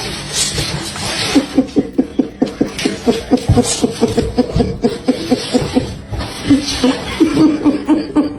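A person laughing hard: a long run of quick, evenly repeated bursts that starts about a second in.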